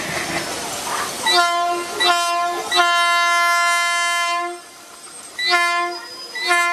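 Train horn sounding in a series of blasts: two short, one long, then two more short ones. A hiss of air runs during the first second, before the horn starts.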